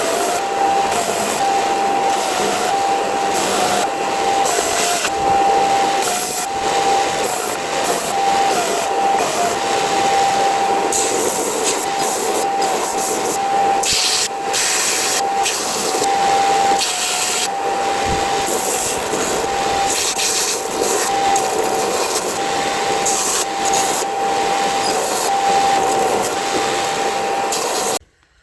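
Belt sander running with a steady whine, the pitch dipping briefly now and then as a cast bronze piece is pressed to the fine-grit belt, under a continuous grinding rasp. The sound cuts off suddenly near the end.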